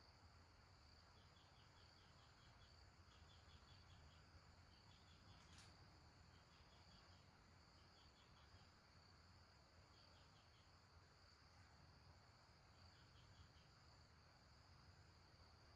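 Faint forest insect chorus: a steady high drone with crickets chirping in short rapid pulse trains that repeat every second or two. A faint click comes about five and a half seconds in.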